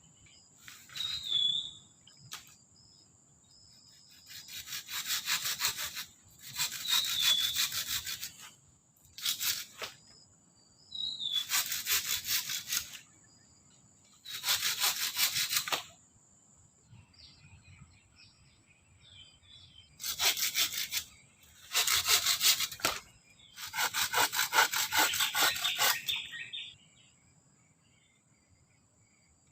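Hand saw cutting wood in repeated runs of strokes, each run a second or two long with pauses between. A steady high insect drone and faint bird chirps sound behind it.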